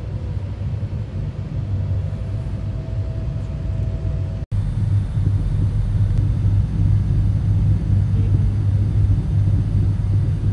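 Steady low rumble of a passenger train running at speed, heard from inside the carriage. The sound cuts out for an instant about four and a half seconds in.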